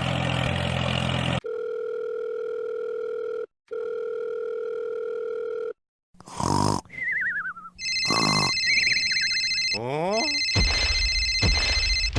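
A steady electronic tone like a telephone dial tone, held for about four seconds with one short break. It is followed by a string of electronic beeps, chirps and sliding or warbling pitch sweeps.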